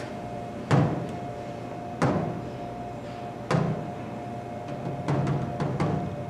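A series of about six sharp percussive hits, irregularly spaced and each ringing briefly, over a steady faint hum.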